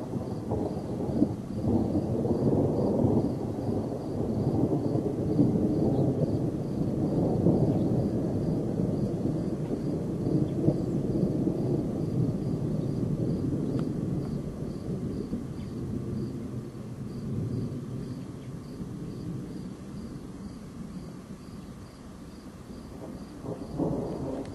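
Long rolling thunder rumble from a tornado-producing thunderstorm, building over the first dozen seconds and then slowly dying away.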